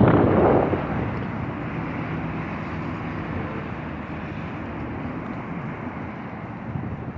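Strong storm wind. It buffets the microphone hard for the first second or so, then settles into a steadier, quieter rush.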